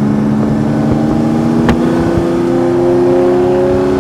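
Car engine accelerating, heard loud from inside the cabin, its pitch climbing slowly and steadily. A single sharp click about a second and a half in.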